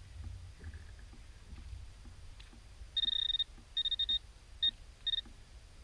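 Metal detector giving four high, steady beeps from about halfway in, the first two longer and the last two short: it is signalling a metal target still in the dug hole.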